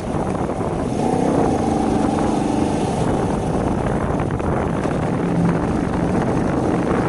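Shineray 50cc motorcycle riding with heavy wind rumble on the microphone. The engine note rises about a second in and then holds steady.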